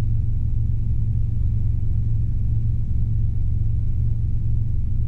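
Robinson R22 helicopter's engine and rotors heard from inside the cabin, a steady low drone with a strong hum, the helicopter climbing under power.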